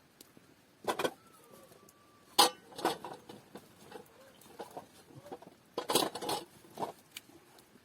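Metal utensils and cookware clinking and knocking: a handful of sharp clatters and scrapes, the loudest about two and a half seconds in and again near six seconds.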